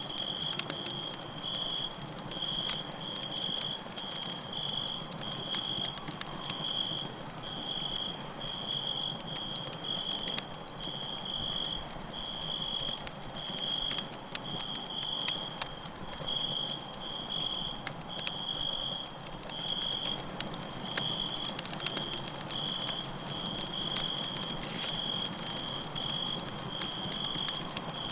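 Campfire crackling with scattered sharp pops, over which a cricket chirps steadily in short high-pitched pulses, about one or two a second.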